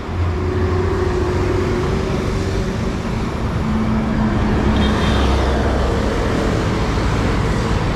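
Road traffic: motor vehicle engines running and passing, over a steady road noise and low rumble.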